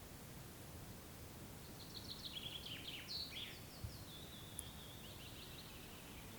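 A songbird sings one phrase of quick high notes and descending trills, ending in a drawn-out trill, from about two seconds in to about five and a half, over a faint steady hiss. A soft low knock comes about four seconds in.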